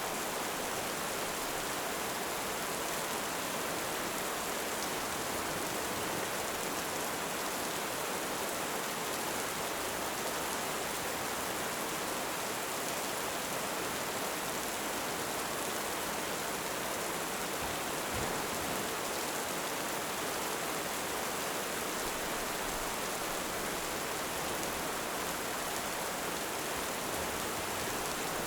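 Steady heavy rain, an even hiss at a constant level.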